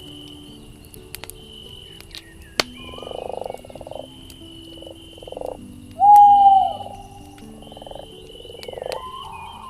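Night forest ambience with frogs croaking in pulsed, buzzy bursts and sharp crackles from a campfire. A high thin tone repeats in short stretches, and a loud whistled call bends downward about six seconds in.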